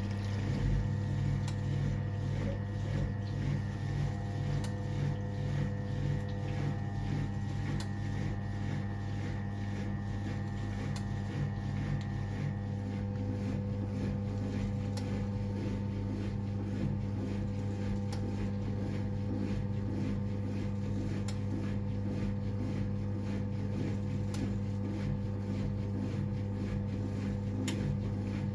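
Siemens WA4600 washing machine from 1978 running with a strong, steady electric hum and several fixed tones, with faint regular ticks.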